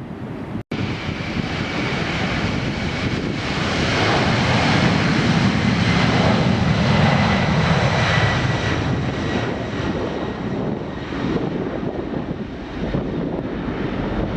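Jet airliner's engines at takeoff power, swelling to a loud roar with a high whine that drops slightly in pitch as it passes, then easing off. A brief gap in the sound about a second in.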